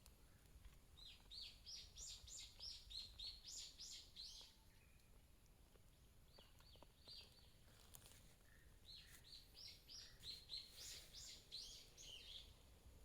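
A songbird singing faintly: a long phrase of quick, high notes, a short phrase about halfway through, then another long phrase.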